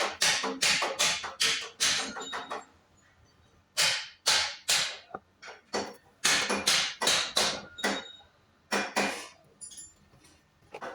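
A series of sharp knocks with a faint ring after them: a fast run of about four a second, a pause of about a second, then more knocks in irregular groups.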